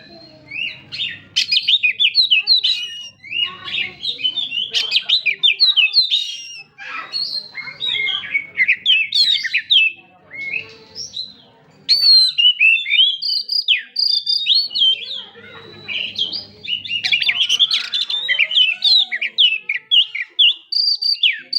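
Oriental magpie-robin (kacer) singing a fast, varied song of chirps, whistles and trills in bursts of several seconds, with short pauses between phrases.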